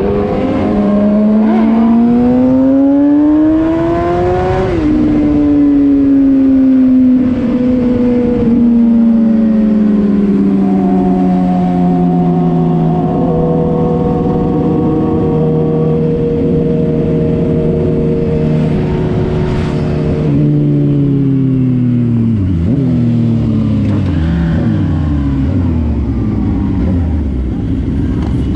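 Engine of a moving road vehicle: it revs up for several seconds, drops sharply in pitch as it shifts up, then falls slowly as it eases off. Near the end it drops in pitch in several quick steps as it slows.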